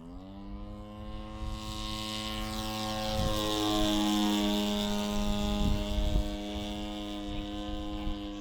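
Radio-control Piper Cub's G26 26cc two-stroke gas engine and 18x8 propeller opening up to full throttle, revs climbing quickly, then running steadily at high revs for the takeoff and climb-out. It grows loudest around the middle as the plane passes closest, then eases off.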